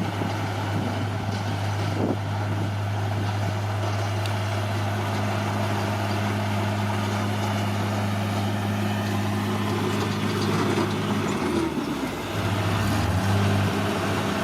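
Bulldozer's diesel engine running steadily. Near the end it dips briefly, then picks up again a little louder.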